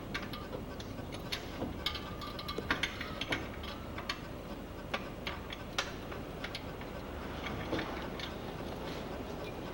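Irregular sharp metallic clicks and clinks of hand tools working on metal parts, over a steady hiss.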